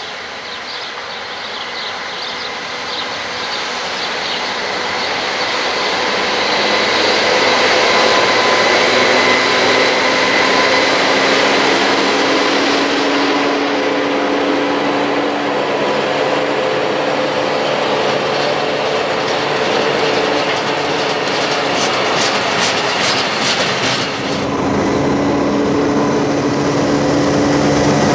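Freight train of hopper wagons hauled by a Captrain diesel locomotive passing close by. The locomotive's engine grows louder as it approaches over the first several seconds, then the wagons' wheels rumble and clatter along the rails, with a quick run of wheel clicks about three-quarters of the way through. A locomotive's engine hum comes up again near the end.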